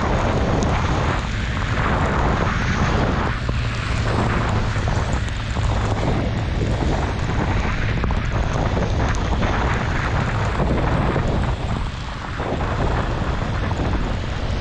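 Honda CB650R inline-four engine running steadily while riding, under heavy wind rush over the microphone.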